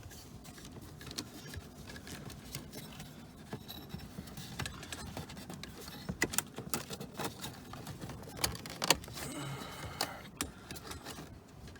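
Scattered clicks, taps and light rattles of small car parts being handled and fitted by hand around the steering column, the loudest click about nine seconds in.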